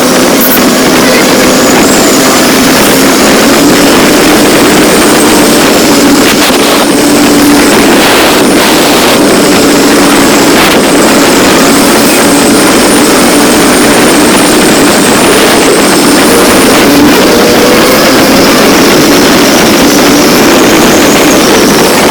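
Motorcycle running at a steady cruising speed, its engine drone buried under heavy wind rush on the microphone.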